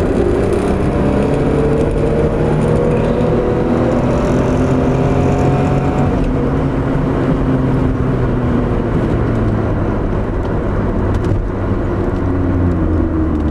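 Porsche engine pulling the car along an open road, heard from inside the cabin over steady tyre and wind noise. The engine note climbs slowly for about six seconds, then drops and runs fairly steady.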